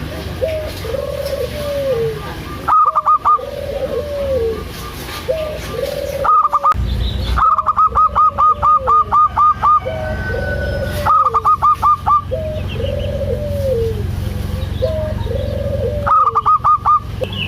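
Zebra dove (perkutut) cooing: low, arched notes repeating about once a second, with several quick runs of higher, rapid staccato notes in between. A low hum runs under it from about a third of the way in.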